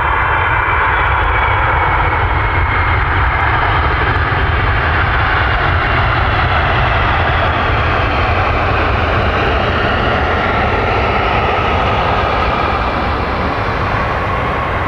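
Jet airliner's engines passing close by: a loud, steady deep rumble with whining tones that slowly shift in pitch.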